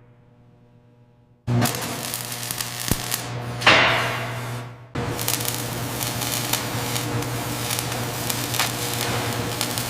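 Truck-factory production noise: a steady machine hum with scattered clanks and clicks, which starts suddenly after a faint opening. About two seconds later there is a brief loud hiss, and the sound drops out for a moment before the hum and clanking resume.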